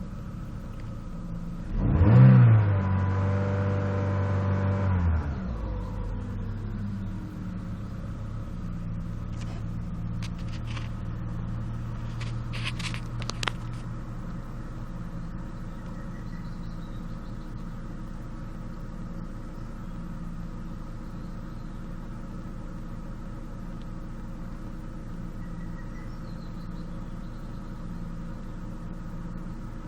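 Chevrolet Cruze 1.6-litre four-cylinder petrol engine, warmed up for about five minutes, idling steadily. It is revved once about two seconds in, held for a few seconds and then drops back to idle. A few faint clicks come near the middle.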